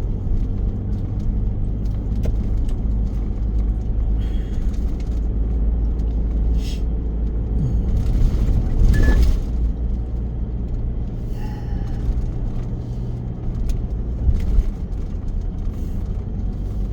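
Steady low rumble of a car's engine and tyres on the road, heard from inside the cabin while driving, swelling louder for about a second and a half some eight seconds in.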